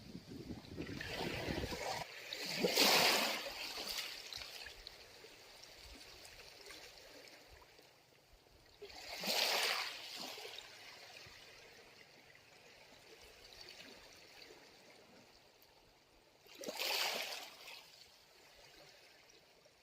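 Small waves washing in over rocks, three surges about seven seconds apart, with quieter water running between them.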